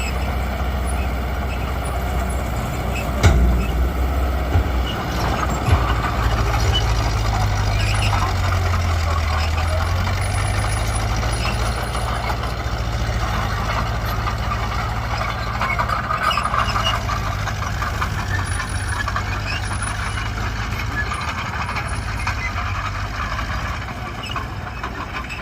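Diesel earthmoving machinery running steadily under load: a bulldozer working soil alongside a dump truck. A sharp metallic clank comes about three seconds in and a couple of lighter knocks follow, and the engine note shifts a few seconds later.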